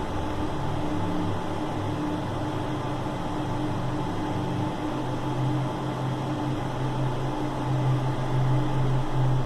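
Steady low hum over an even hiss, like a fan or air-conditioning drone, with no clear knocks or clicks.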